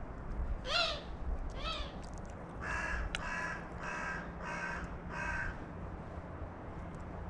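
Carrion crow cawing: five harsh caws in a steady series, preceded by two shorter calls that sweep up and down in pitch.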